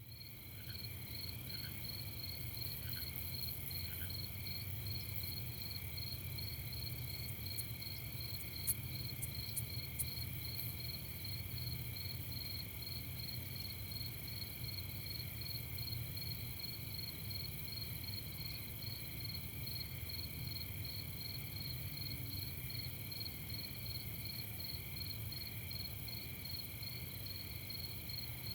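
Night chorus of crickets chirping in a steady, evenly pulsing high trill that runs unbroken, over a low steady rumble. A few sharp clicks stand out about nine to ten seconds in.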